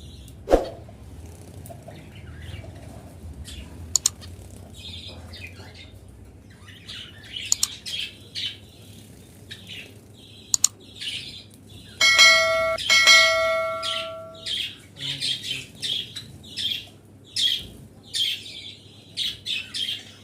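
Small caged pet birds chirping and chattering, with a few sharp clicks and flutters in the first half and busier, rapid chirping in the last third. About two-thirds of the way through, a clear ringing tone at one steady pitch sounds twice.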